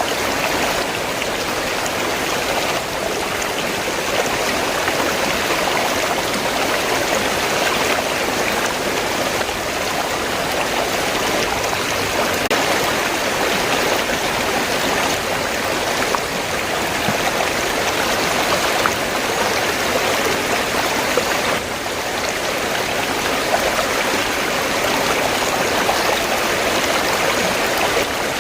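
River water flowing steadily, an even rushing and splashing with no breaks.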